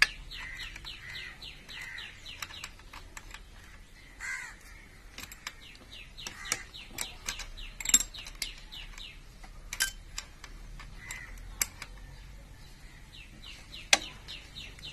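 Sharp metallic clicks and taps of hand tools working on the engine's valve adjusters, a few much louder than the rest. A bird calls in runs of quick falling chirps near the start and again near the end.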